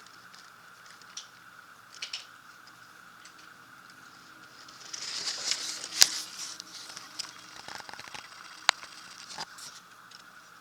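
Blizzard wind and snow: a faint steady hiss with scattered sharp ticks and clicks, swelling into a louder gust of hiss about five to six seconds in, with a sharp click at its peak.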